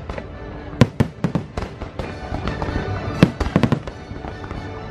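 Aerial fireworks display: a quick, irregular run of sharp bangs from bursting shells, the loudest about three seconds in, with music playing underneath.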